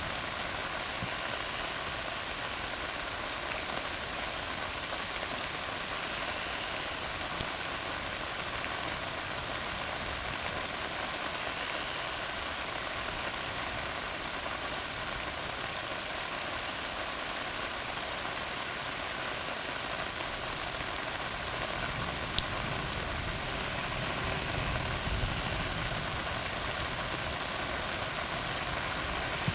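Steady rain falling on a tar road, with a few sharp individual drop hits. A low rumble swells in the second half and fades near the end.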